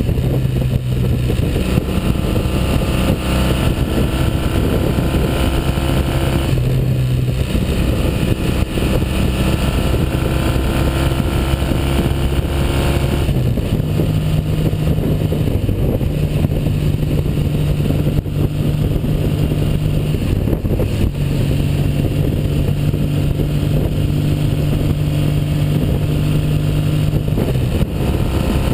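1959 Norton Dominator 600 parallel-twin engine, freshly overhauled, running steadily under way; its engine note shifts in pitch a few times as the engine speed changes, most clearly about six and thirteen seconds in.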